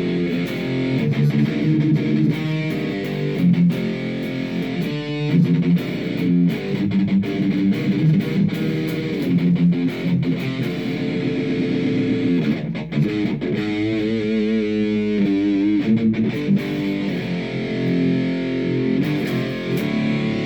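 Guitar music with a distorted, effects-laden tone, playing a line of held and changing notes; about two-thirds of the way through the notes waver quickly up and down for a couple of seconds.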